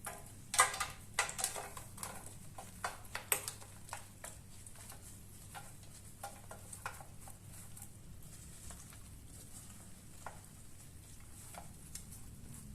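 Spatula scraping and working a sticky chocolate and puffed-rice mixture out of a pan, with a quick run of scrapes and clicks in the first few seconds, then only occasional light taps.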